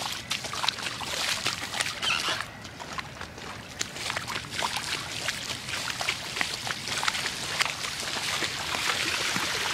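Feet wading through floodwater: irregular sloshing and splashing with each step, over a steady wash of moving water.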